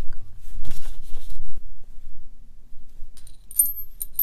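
Small steel parts of a thrust bearing being handled on the bench: a click and a brief rustling scrape, then a few light metallic clinks with a high ring about three seconds in.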